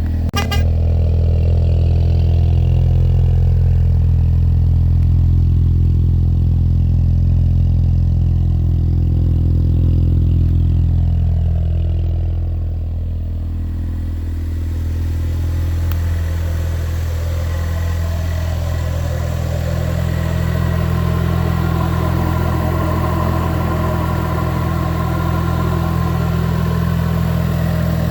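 2019 Ford Mustang's 2.3-litre EcoBoost turbocharged four-cylinder idling steadily just after a cold start, heard through a Solo Performance cat-back exhaust. The note turns rougher and noisier from about halfway.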